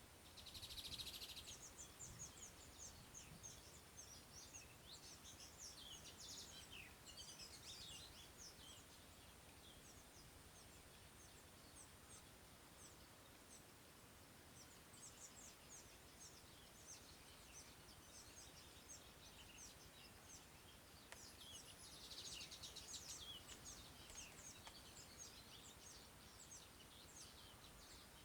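Faint chirping of many small birds, short high calls coming continually, with a brief rapid buzzy trill about a second in and again at about 22 seconds.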